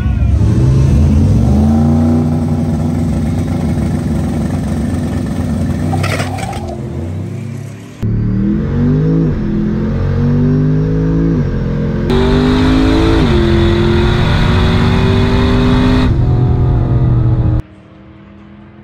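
Drag-racing pickup trucks' engines at full throttle, pitch climbing and dropping back at each gear shift, in several cut-together passes. Near the end it drops to a much quieter steady engine hum.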